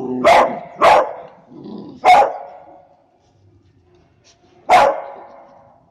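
Dog barking sharply four times, with a short low growl at the start, in a squabble over food.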